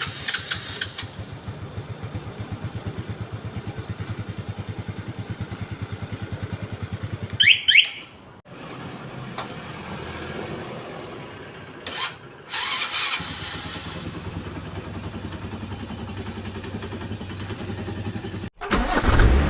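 Small single-cylinder motorcycle engine running with an even, pulsing idle, now holding idle after the stale fuel was replaced. A brief high squeal comes about seven seconds in, the sound changes abruptly a few times, and the engine comes back louder at the very end.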